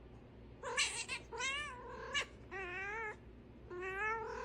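A cat meowing four times in a row, drawn-out yowling calls with a wavering pitch.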